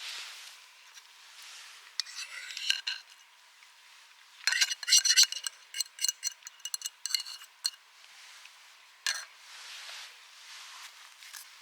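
Metal utensil clinking and scraping against a metal pan: a short flurry of ringing clinks about two seconds in, then a longer run of quick clinks from about four and a half to seven and a half seconds, and one more clink near nine seconds.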